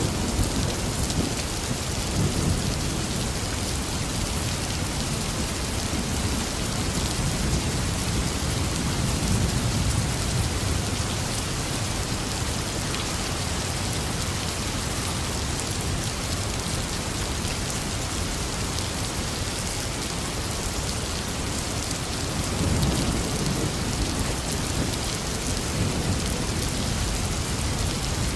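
Steady heavy rain falling, with low rumbles of thunder swelling up a few times: near the start, around nine seconds in and again around twenty-three seconds in.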